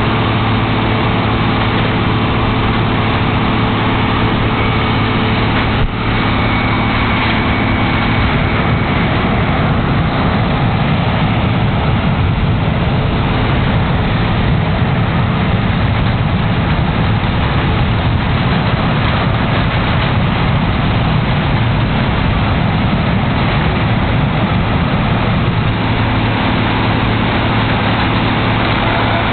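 P-19 airport crash fire truck's diesel engine running loud and steady. About eight seconds in, the steady hum gives way to a denser rushing noise, which eases off again near the end.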